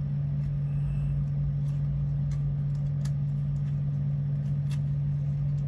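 A steady low hum, with a few faint light clicks over it.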